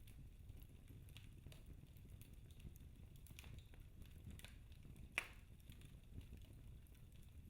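Wood fire in a fireplace crackling faintly over a low steady rumble, with scattered small pops and one sharper pop about five seconds in.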